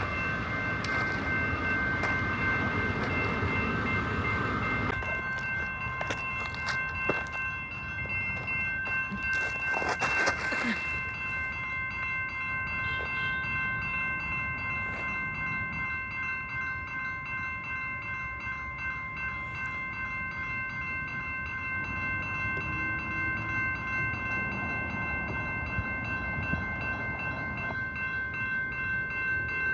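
Train running on the rails, louder for the first few seconds and then settling to a lower rumble, with several steady high tones held throughout.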